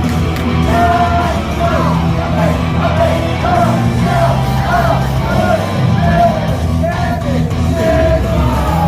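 Loud live pop-rock music with singing and shouting voices, played at an idol group's stage performance.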